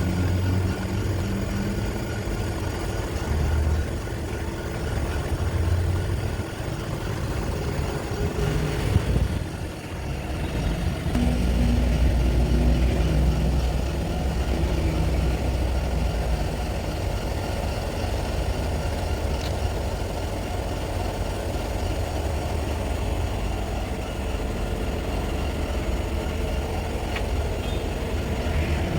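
Pressure washer motor and pump running steadily with a low rumble. It dips briefly about nine seconds in and grows heavier for a few seconds after about eleven seconds.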